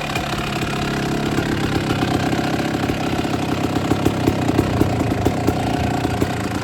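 Two-stroke 250 motocross bike engine idling on its own with a fast, slightly uneven beat and a few louder pulses. The idle is set a little too low: the owner wants to turn it up.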